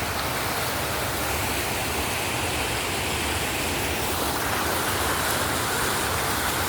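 Water splashing steadily from a decorative fountain, a constant rushing spray.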